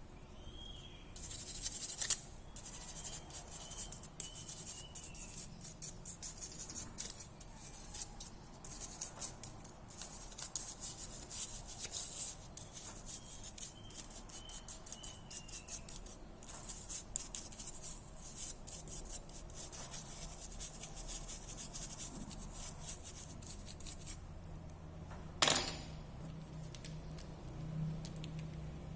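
Rapid scratchy rubbing or scraping of a tool against a small hard part, in long runs with a short pause partway through, then one sharp click near the end.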